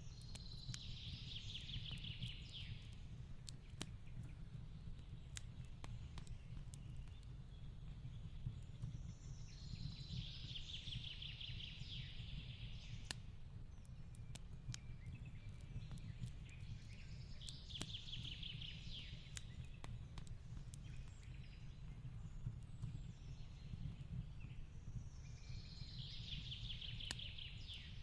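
Fireplace burning with a steady low rumble and scattered sharp crackles and pops. Over it, a songbird's rapid two-second trill repeats about every eight seconds, four times.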